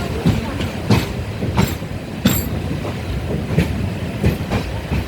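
Indian Railways passenger train running: a steady rumble with irregular sharp clacks and knocks of the wheels over the rails, about one every half second.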